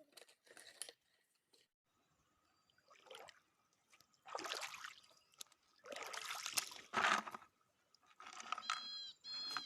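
Water sloshing and splashing in about four irregular bursts, the loudest about seven seconds in.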